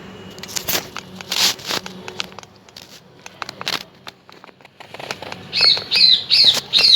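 A few short, scattered noisy bursts, then from about five and a half seconds in a bird calling in a quick series of sharp, downward-bending chirps, about three a second.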